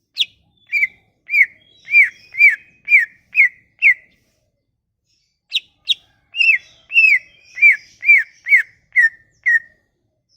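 A songbird singing clear whistled notes in two phrases, each a run of short falling whistles at about two a second, opened by a sharp higher note. It is lure song played to set a silent green leafbird (cucak ijo) singing.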